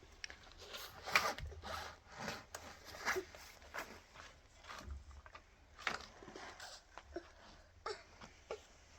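Irregular short rustles and scrapes, several a second, of things being handled.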